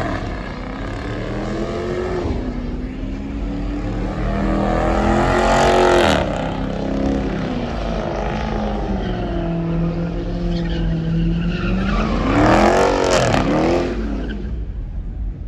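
Car engine revving hard, its pitch repeatedly climbing and dropping, with the loudest surges about six seconds in and again near the end.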